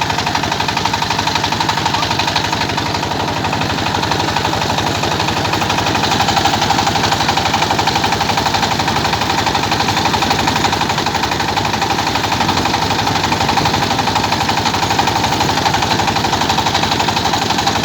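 An old rice milling machine running steadily and loudly, its drive giving a fast, even hammering pulse.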